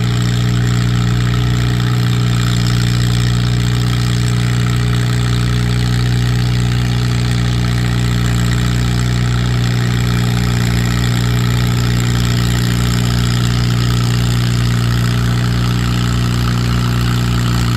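Antique pulling tractor's engine running at a steady speed. It has been misfiring, which the commentator says is not normal for this tractor.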